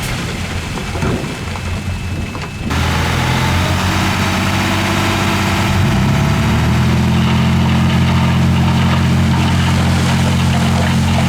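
Heavy earthmoving machine's diesel engine running with a steady low drone. About three seconds in, a louder rushing noise sets in suddenly over it.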